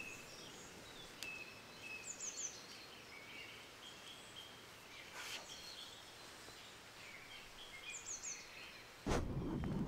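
Faint, sparse birdsong: scattered short chirps and, twice, a quick run of three high falling notes. A louder rustling noise starts near the end.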